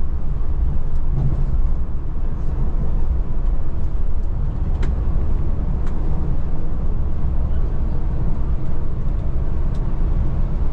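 Scania Metrolink multi-axle coach on the move, heard from inside: a steady low rumble of engine and road noise, with a few faint ticks and rattles.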